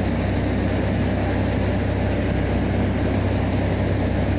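Fishing party boat's engine running underway, a steady low drone with an even rushing noise over it.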